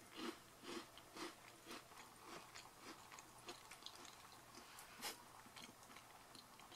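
Faint close-up chewing of a butter shortbread cookie with a cream filling: crunchy chews about two a second at first, then softer, irregular mouth clicks, with one sharper click about five seconds in.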